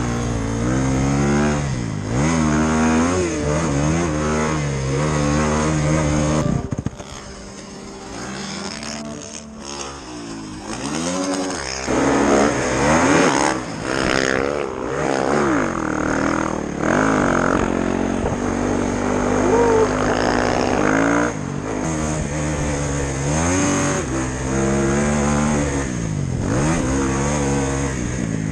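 Snowbike engines (dirt bikes on snow kits) revving up and easing off again and again as they are ridden, with a quieter stretch about seven seconds in before the revving picks up again.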